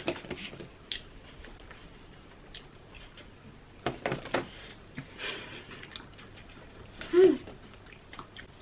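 Quiet chewing and small mouth noises of people eating sausage rolls fast, with scattered clicks from handling the pastry and a plastic ketchup tray. A short vocal sound falling in pitch, a muffled 'mm' from a full mouth, stands out about seven seconds in.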